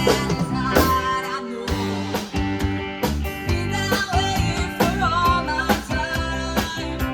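Band playing a rock cover song, with a singer and a steady beat.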